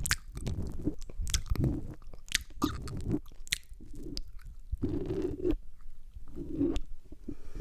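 Close-miked ASMR mouth sounds and licking on the microphone: irregular sharp, wet clicks of lips and tongue between duller, muffled smacks.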